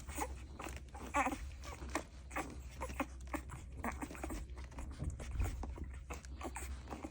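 A dog making short, irregular small sounds close by, over a steady low hum.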